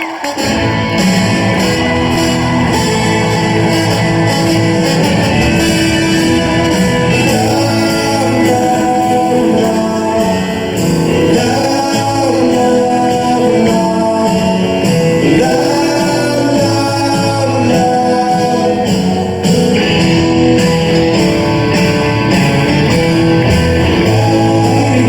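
Live rock band with electric guitars, bass and drums playing a song with singing, loud in a large concert hall.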